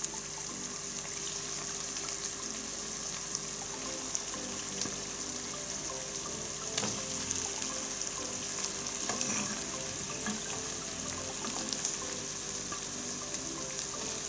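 Masala-coated quail pieces sizzling steadily as they fry in onion-tomato masala in a nonstick pan. A few light knocks sound as pieces are laid in and pushed around with a wooden spatula.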